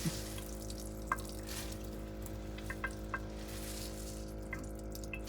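Water squeezed from grated potato dripping out of a cheesecloth into a bowl: a few separate small drips over a steady hum.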